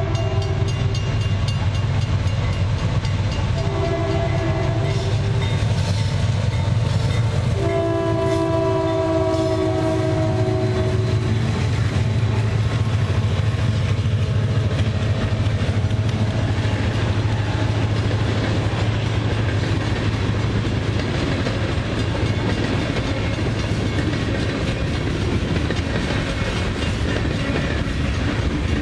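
Diesel freight locomotive horn sounding a chord: the end of one blast, a short blast about four seconds in, then a long blast of several seconds, over the low steady rumble of the diesel engines. The engine rumble then fades and the freight cars roll past with steady wheel-on-rail noise and clatter.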